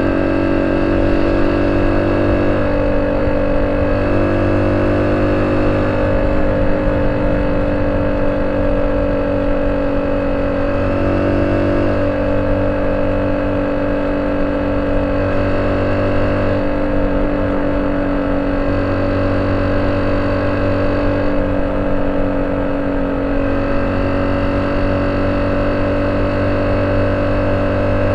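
Exhaust note of a Honda C70's small single-cylinder four-stroke engine, running steadily at an even, nearly constant speed.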